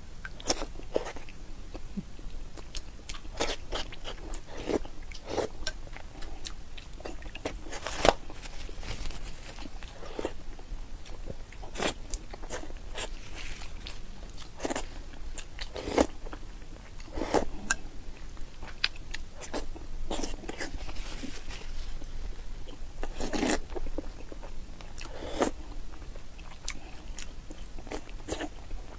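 Close-miked chewing and mouth sounds of someone eating soy-sauce-marinated boiled eggs, with irregular wet smacks and clicks.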